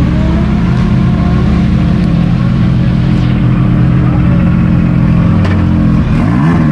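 Drift car engine running loudly at a steady pitch, then its revs swing sharply up and down several times near the end.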